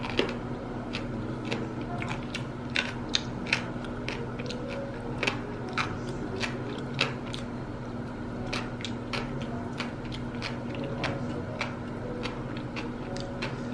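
Eating sounds: chewing, with many short, irregular clicks, over a steady low hum.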